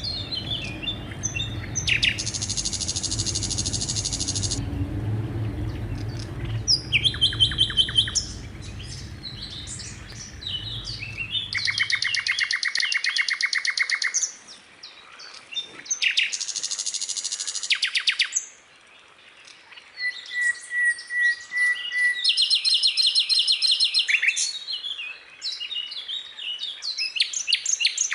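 Skylark singing a long, varied song of rapid trills and buzzy rattling phrases, with short pauses between phrases. A low rumble underlies the first half and stops about halfway.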